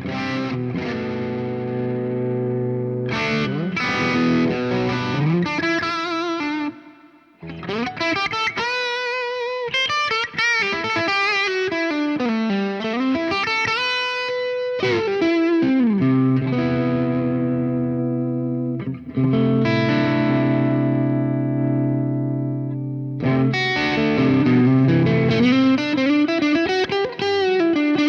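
Electric guitar played through a Joyo R-20 King of Kings Bluesbreaker-style dual overdrive pedal, with a mildly distorted tone. Chords ring out, then lead phrases with string bends and vibrato, then more held chords and another bent lead line near the end.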